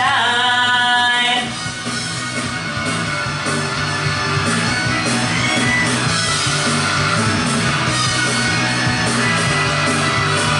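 Rock song: a sung note held for about a second and a half, then the band plays on without vocals.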